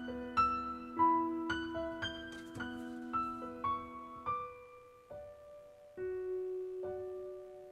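Background piano music: slow, gentle single notes struck one after another over held lower notes.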